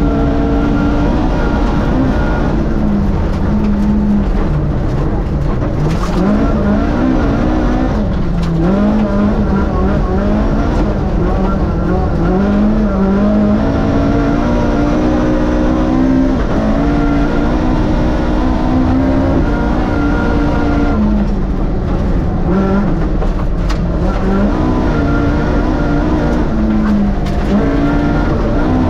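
Rally car's race-tuned Vauxhall 2.0-litre four-cylinder engine, heard on board, pulled hard through the gears. Its pitch climbs and then drops sharply at each gear change, several times over.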